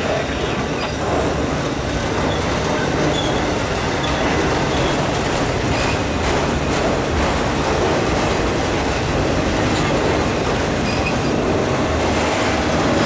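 Enclosed autorack freight cars rolling steadily past on the track, a continuous noise of steel wheels on rail.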